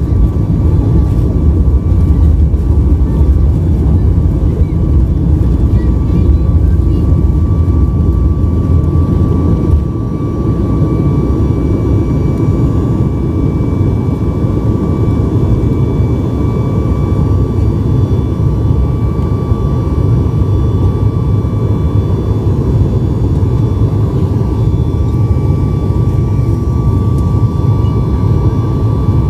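Cabin noise of a Boeing 737 MAX 8 under engine power: a steady, loud low rumble from the CFM LEAP-1B engines with a thin steady whine above it. The rumble eases slightly about ten seconds in.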